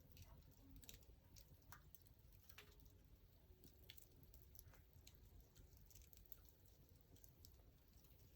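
Faint crackling of a wood fire: scattered, irregular small pops and snaps over a low, steady rumble.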